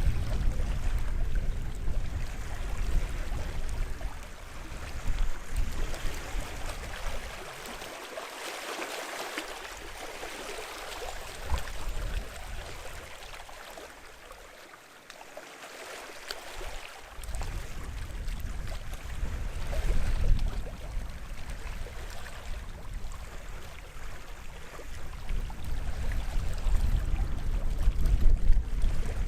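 Sea waves washing and lapping on the shore in a continuous wash of water that eases off in the middle and builds again. A low rumble is strong near the start and the end.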